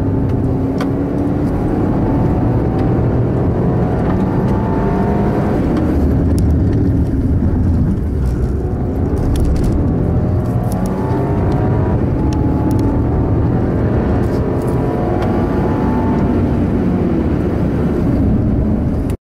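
Audi A4 2.0 TFSI quattro's turbocharged four-cylinder petrol engine heard from inside the cabin, driven hard at high revs. Its pitch climbs through several full-throttle pulls, falling at gear changes and as the car slows for bends. The sound cuts off suddenly near the end.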